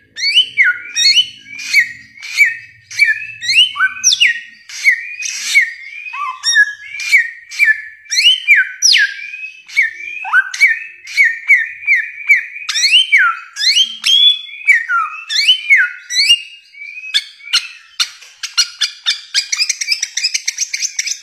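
Bare-throated whistler (samyong) singing: a rapid run of loud whistled notes, each sliding sharply up or down, several a second. Near the end it speeds into a fast rattling series of higher notes.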